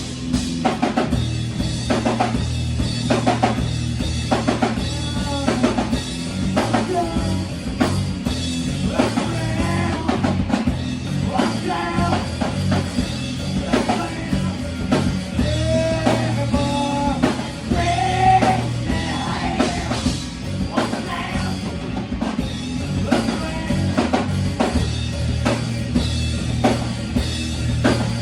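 Live rock band playing: a drum kit keeps a steady beat over a bass line, with a sung vocal line through the middle.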